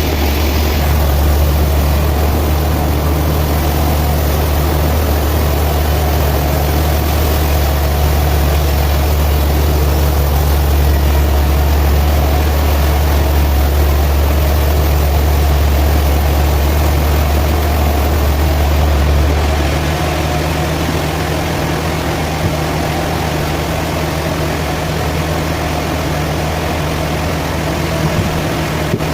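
Sawmill machinery running with a steady low drone and a noisy haze above it; the deepest part of the hum drops noticeably about two-thirds of the way through.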